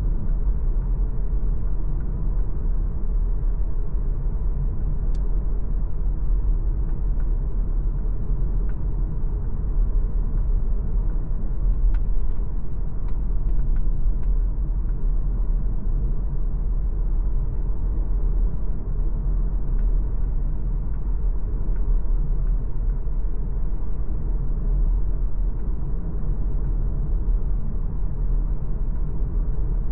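MG ZS Hybrid+ driving along, a steady low rumble of road and drivetrain, with a few faint ticks about halfway through.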